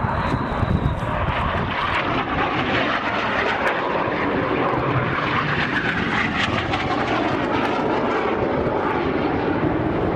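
Fixed-wing aircraft flying over, its engine a steady, even drone.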